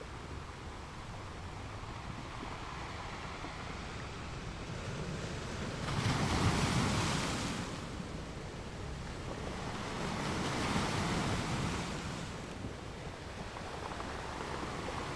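Ocean waves washing onto a shore: a steady hiss of surf with a louder wave breaking about six seconds in and a smaller one rising and falling around ten to twelve seconds.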